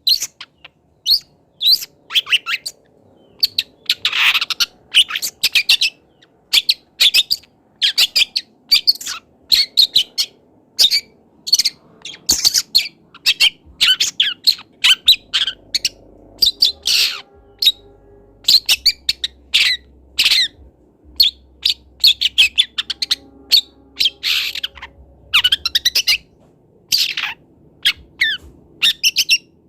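Juvenile long-tailed shrike calling in a rapid, irregular run of short, sharp chirps and harsh squawks, several a second: a young bird practising and learning its song.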